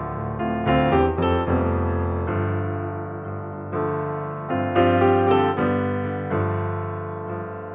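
Background piano music: struck notes and chords ringing out and slowly fading.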